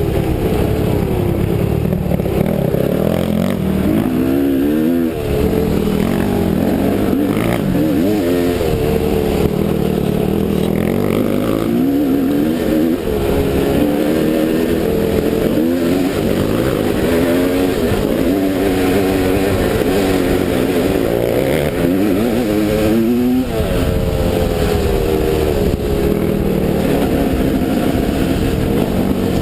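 Enduro dirt bike engine revving up and down under way, its pitch rising and falling every few seconds as it accelerates and eases off.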